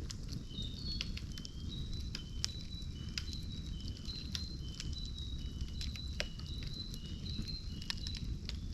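Campfire burning, crackling with frequent sharp pops over a steady low rumble. Through it runs a series of short, high, whistle-like notes alternating between two pitches.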